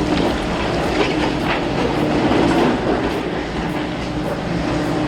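Heavy machine running with a steady mechanical rumble and a regular clatter, about two clanks a second.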